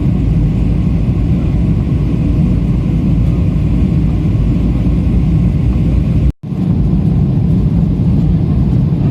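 Steady low roar of airliner cabin noise in flight: jet engines and rushing air heard from inside the passenger cabin. About six seconds in, the sound cuts out completely for a split second and then resumes.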